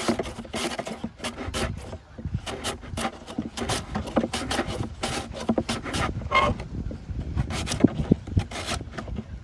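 Raw potato scraped against a sharp blade in quick repeated strokes, about three a second, with a short pause near the end.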